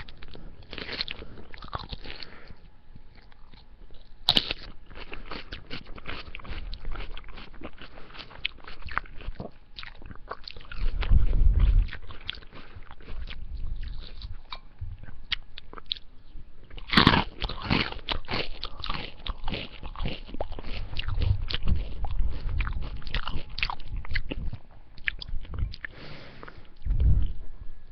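Close-miked chewing and crunching of salad, with many crisp clicks and crackles and a few deeper thumps.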